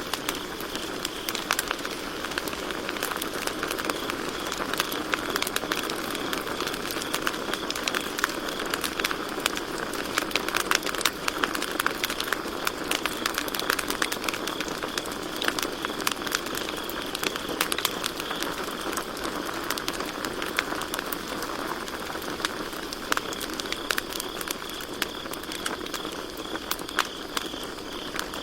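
Campfire crackling and popping steadily, with crickets chirping in a steady high trill behind it.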